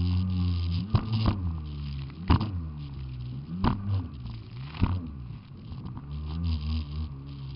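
Jet ski engine running with its pitch rising and falling as the throttle changes. About five sudden sharp knocks cut through it in the first five seconds.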